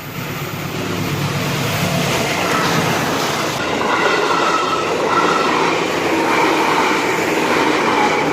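Train passing close by at a level crossing, a loud rushing rumble of wheels on rails with high whining tones over it.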